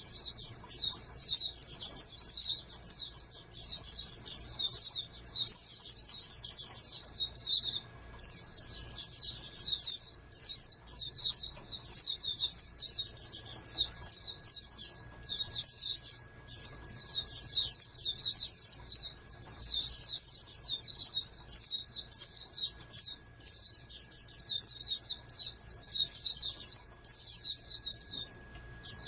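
White-eye (pleci) songbird singing a long, rapid, high-pitched twittering song almost without pause, breaking off briefly about eight seconds in and again near the end.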